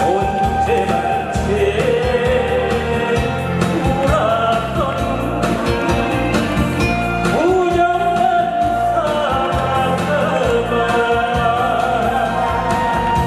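A singer singing a song over a loud instrumental backing track.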